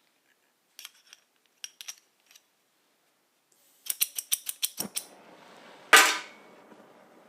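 Oxy-acetylene torch being lit: gas starts hissing, a striker clicks about seven times in quick succession, then the acetylene catches with one loud pop and settles into a steady burning hiss. A few small handling clicks come first.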